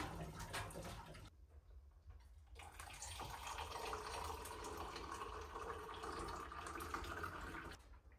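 Water running or being poured, in two stretches: a short one at the start, then after a pause of about a second, a longer steady run that stops shortly before the end.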